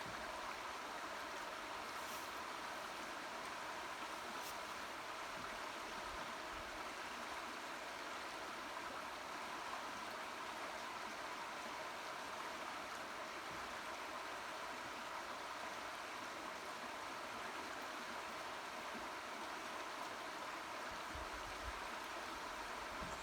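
Steady rush of a swollen, fast-flowing river running high.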